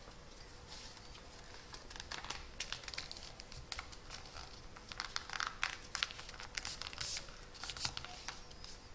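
A sheet of A4 paper being folded and creased by hand into a paper airplane's wing, a run of crisp crinkles and rustles that gets busier in the second half.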